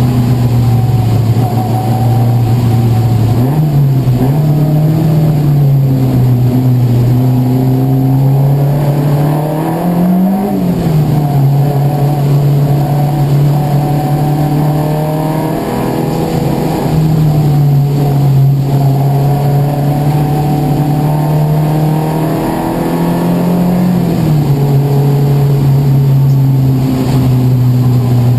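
Race car engine running at a steady, moderate pace, its note rising briefly and falling back a few times, most sharply about ten seconds in. This fits slow, cautious driving in the wet.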